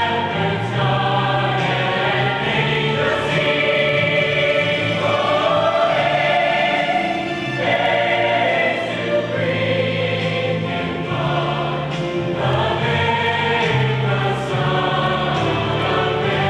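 A choir singing a slow piece in long held notes, with sustained low notes beneath the voices.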